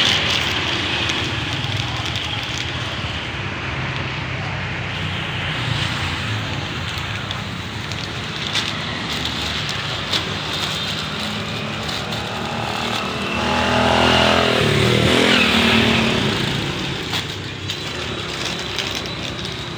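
Steady traffic noise, with a motor vehicle's engine passing close by about two-thirds of the way through, its pitch rising and then falling.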